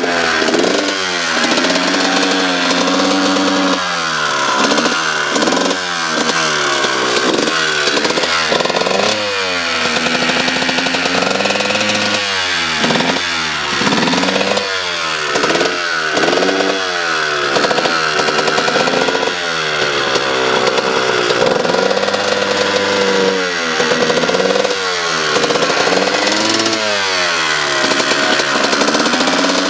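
Dirt bike engine revved over and over, its pitch rising and falling with quick throttle blips about once a second, with a few short stretches of steady idle between runs.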